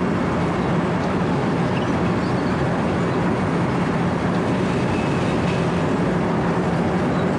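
Wirtgen W120 CFi cold milling machine running under load, its diesel engine drone and the cutting drum grinding asphalt making a loud, steady noise with a low hum.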